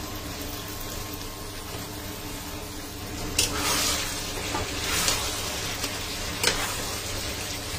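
Okra and potatoes sizzling steadily in a stone-coated non-stick wok. From about three and a half seconds in, a metal spatula scrapes and turns them a few times.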